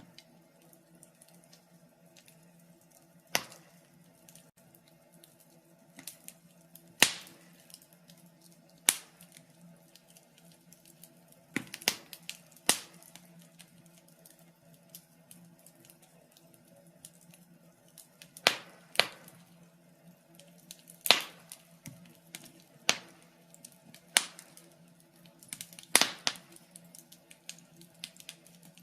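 Wood fire burning in a fireplace, crackling, with irregular sharp pops about every one to three seconds. A faint steady low hum runs underneath.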